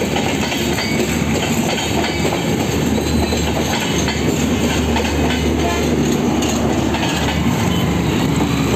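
Passenger coaches of an express train rolling past at speed, their wheels clattering steadily on the track. The last coach goes by near the end.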